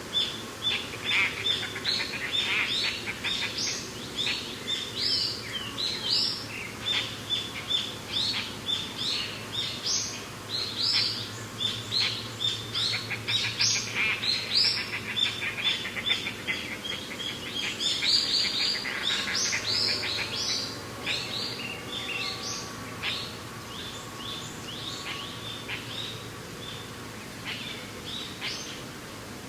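Many songbirds chirping and calling together in a dense stream of short, high notes, thinning out in the last third. A soft, steady rush of wind runs underneath.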